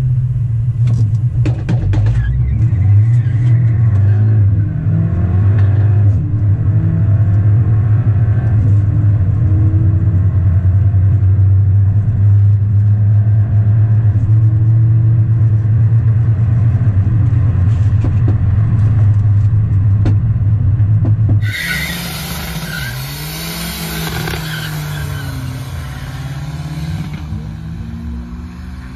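Car engine heard from inside the cabin during a run: a loud steady low drone, with engine tones rising above it. About twenty seconds in it cuts sharply to an open-air recording of a loud hiss, with a distant car's engine note rising and falling.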